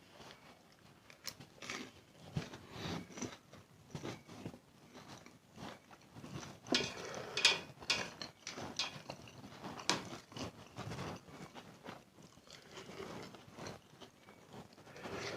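Close-up eating sounds of a person chewing and slurping spicy instant noodles: irregular wet smacks and clicks, busiest about halfway through.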